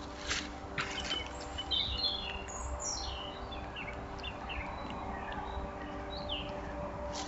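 Forest birds chirping and calling with short, quick falling notes, picked up by a trail camera's microphone over a steady low hum. A few sharp clicks come in the first second or so, and another near the end.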